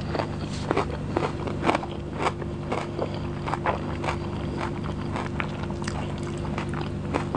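Close-miked chewing and wet mouth smacks of a person eating biryani and chicken curry, with soft squelches of fingers mixing the rice and curry. Many short, irregular clicks sit over a steady low hum.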